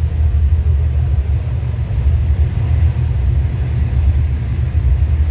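Steady low rumble of a passenger train in motion, heard from inside the carriage.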